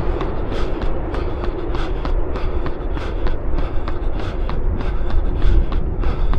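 A runner's footsteps striking the path at a steady cadence of about three steps a second, over a constant low rumble of wind on the body-worn camera's microphone.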